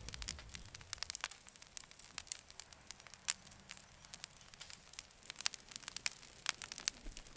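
Campfire crackling: irregular sharp pops and snaps, several a second, over a soft hiss.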